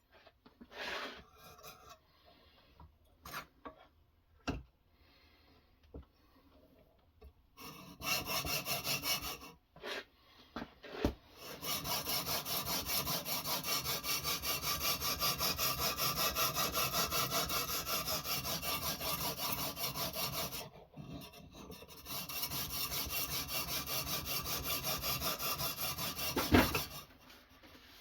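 A diamond sharpening stone on a guided knife-sharpening rig, rubbed in quick back-and-forth strokes along a steel blade edge to grind the edge bevel. The first seconds hold only a few light clicks of handling. Then come long, steady runs of scraping strokes, broken once by a short pause, and a sharp click near the end.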